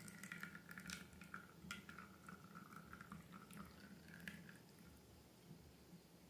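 Faint wet clicks and drips of slime or liquid being poured and handled, with a thin wavering tone among them, dying away after about four and a half seconds.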